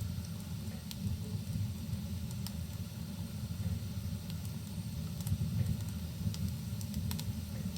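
Fireplace fire burning with a low, steady rumble and a few sharp crackles and pops, over a soft, even hiss of rain.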